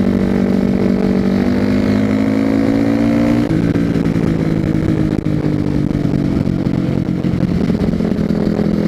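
A 2006 Yamaha WR450F supermoto's single-cylinder four-stroke engine is heard through a loud FMF slip-on exhaust whose packing is blown out. The revs climb through a gear, drop sharply at a shift about three and a half seconds in, then slowly fall off.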